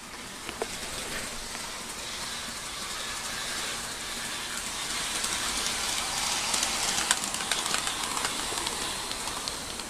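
Two coupled HO scale model locomotives, one an Athearn EMD GP50, running along the track: a steady whirring rattle of motors and wheels with light clicks. It grows louder to about seven seconds in, then eases off near the end as they pass.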